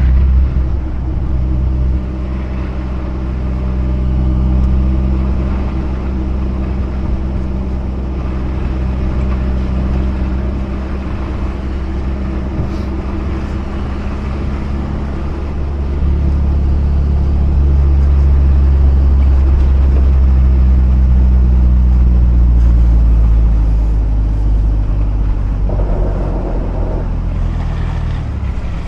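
Mazda RX-8's twin-rotor Renesis rotary engine running as the car is driven, its note shifting several times and running louder for a stretch past the middle, over a steady hiss of road noise.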